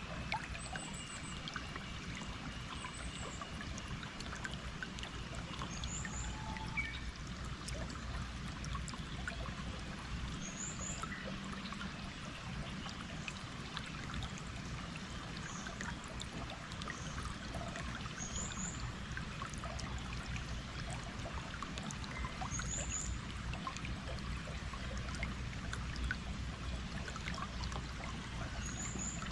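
Stream water flowing steadily, with birds giving short high chirps every few seconds.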